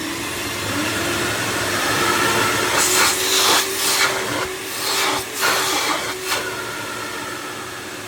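A three-motor 80-litre wet and dry vacuum cleaner switched on, its motor whine rising as it spins up in the first second, then running steadily with a rush of air. Several brief louder surges of air come between about three and six seconds in.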